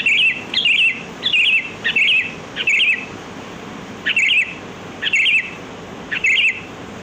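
Sooty-headed bulbul (kutilang) calling: a short, bright, warbling chirp repeated eight times, five in quick succession and then three more spaced about a second apart after a brief pause.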